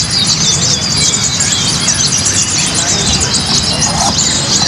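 Many caged songbirds chirping and trilling at once in quick, high, overlapping phrases, over a low hum of crowd chatter.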